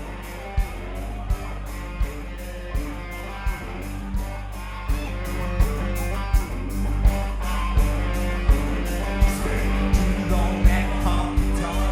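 Live rock band playing an instrumental stretch: guitar over a steady drum beat with regular kick drum strikes and cymbals. The band grows louder and fuller about five seconds in.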